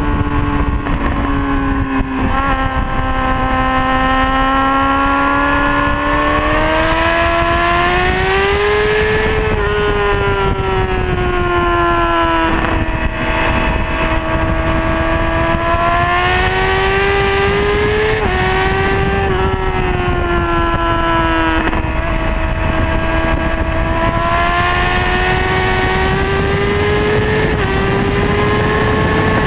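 Honda CBR600RR's inline-four engine running hard at high revs, its pitch climbing in three long surges and falling back between them, with wind rush on the microphone.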